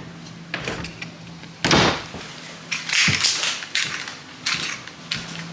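A string of short knocks, clicks and rattles, the loudest about a second and a half in and a quick cluster of them in the middle, over a faint steady hum.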